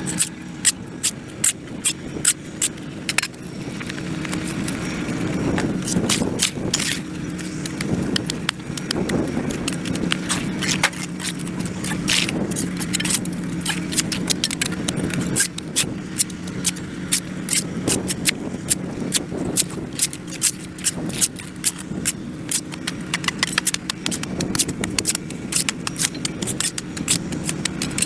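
Hand tool repeatedly scraping and knocking on a concrete sidewalk as packed dirt and grass are cleared, giving irregular sharp clicks several times a second over a steady low hum.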